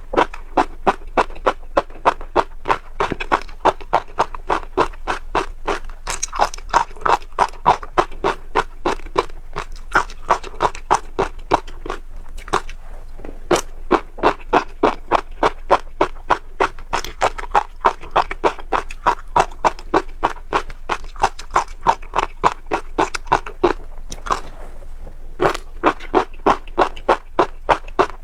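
Close-miked chewing of crunchy seeds: a fast, even run of crisp crunches, several a second, with brief pauses about halfway through and shortly before the end.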